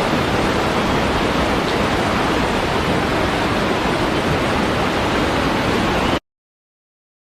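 Steady rushing of a waterfall, an even hiss with no rhythm, that cuts off suddenly about six seconds in, leaving silence.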